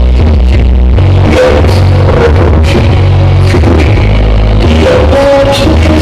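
Loud electronic dance music with a heavy, sustained bass line, played through a large sound system.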